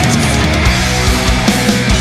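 Loud thrash metal music: distorted electric guitars over bass and a driving drum beat.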